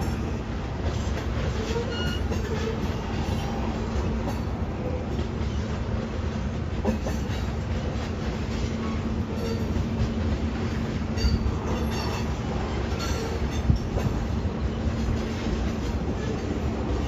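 Tank cars of a Union Pacific freight train rolling past: a steady rumble of steel wheels on rail with a low hum. Short, faint high wheel squeals come now and then, and a few sharp clacks, the loudest a little before the end.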